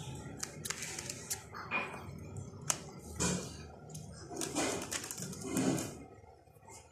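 Pet budgerigar chattering: scratchy warbles broken by sharp clicks, with three longer bursts of chatter, the last the longest.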